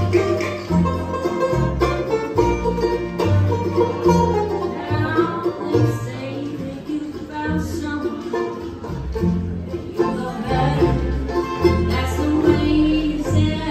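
Bluegrass band playing live, the banjo picking to the fore over a line of low bass notes that changes about every half second.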